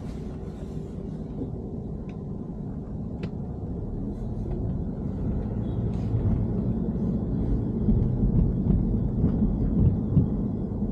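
BMW E90 3 Series on the move: a steady low rumble of engine and road noise that slowly grows louder, with two faint clicks a few seconds in.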